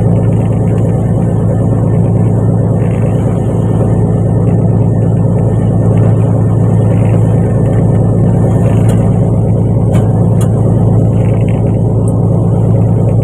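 Fishing boat's engine running at a steady, loud drone, with a few faint clicks about two-thirds of the way through.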